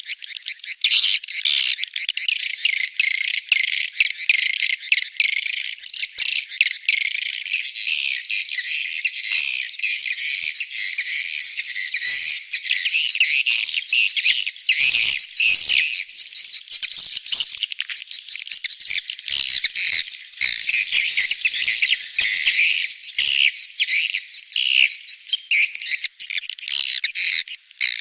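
Swiftlets calling: a dense, unbroken chatter of rapid high chirps and buzzy twitters from many birds. It is the swiftlet mating call that is played to lure swiftlets into nest houses.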